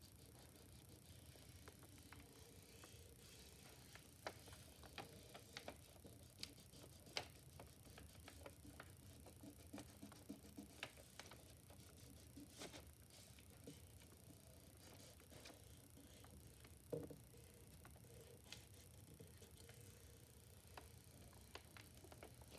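Quiet handling sounds of tracing a paper template around a tractor's metal gear cover: scattered small taps, clicks and paper rubbing, with a louder knock about 7 s in and another about 17 s in.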